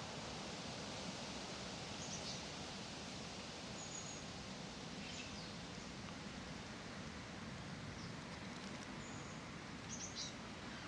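Steady outdoor background hiss with a few short, high bird chirps scattered through it, several of them close together near the end.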